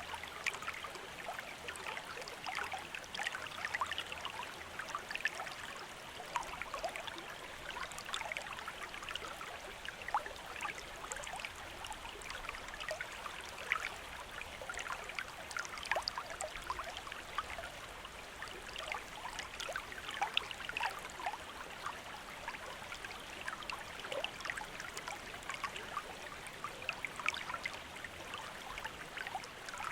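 Shallow stream or small river running over stones, a steady babble of water with many small irregular splashes and gurgles.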